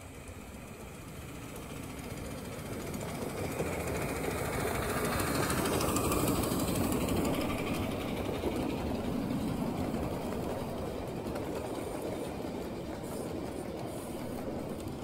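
A 7.5-inch gauge miniature train running past on the track: the sound grows, is loudest about six seconds in, then slowly fades as it moves away.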